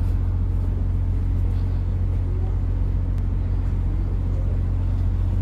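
Houseboat's engine running steadily, a constant low drone.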